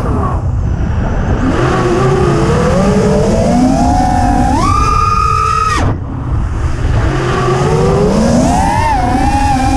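FPV quadcopter's brushless motors and propellers whining in flight, the pitch climbing and falling with the throttle over a rumble of prop wash and wind. About six seconds in, the throttle is chopped: the high whine drops away sharply, then climbs again.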